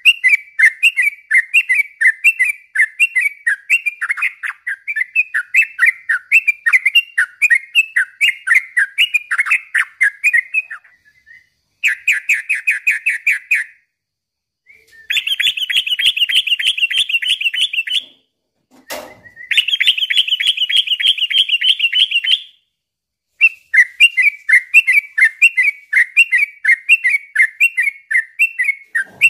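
Yellow-vented bulbul (trucukan) singing: long runs of quick warbled notes, broken in the middle by stretches of fast, even rapid-fire trills, the trucukan's 'ropel' song. A single sharp click sounds between two of the trills.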